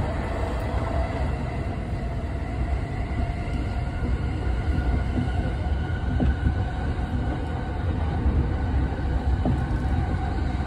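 Inside the cabin of a JR Yokosuka Line electric commuter train running along the track: a steady low rumble of wheels on rail, with a faint steady whine above it.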